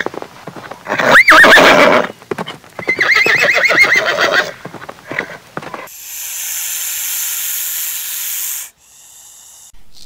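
A horse neighing: two loud whinnies with a wavering, quavering pitch, the first about a second in and the second around three seconds in. Then a rattlesnake's steady hiss lasts about three seconds and cuts off suddenly.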